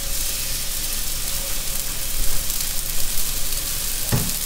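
Raw chicken breasts sizzling on an oiled steel flat-top griddle at about 400°F at the start of a high-heat sear. A steady frying hiss with a few sharper crackles.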